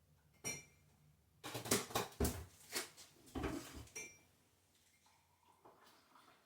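Hard objects being handled: a single knock, then a run of clattering knocks with a couple of short metallic clinks, then a few faint small knocks.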